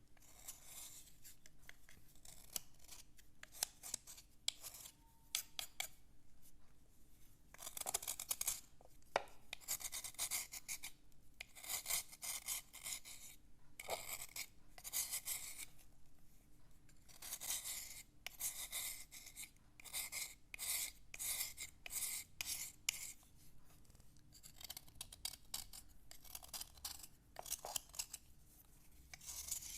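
A writing slate being scratched and rubbed in quick repeated strokes, a dry rasping scrape that comes in short runs with brief pauses between them.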